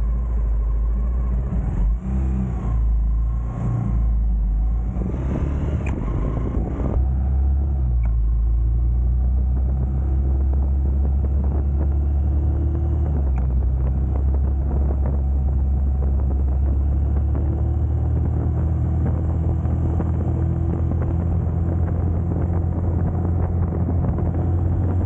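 Honda GB250 Clubman's single-cylinder four-stroke engine running under way, its pitch shifting over the first several seconds and then holding a steady drone.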